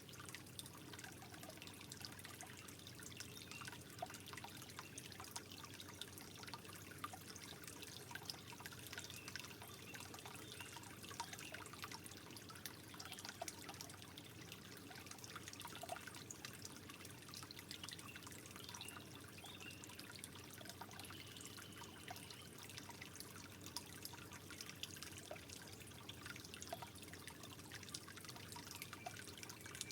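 Water gently trickling, steady and soft, with many small drips and plips running through it.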